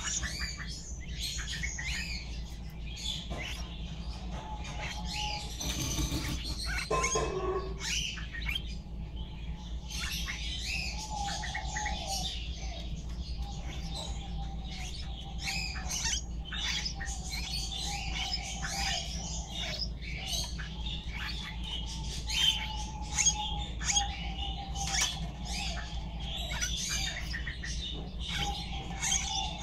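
Small birds chirping constantly: many short, high chirps overlapping one another, over a steady low hum.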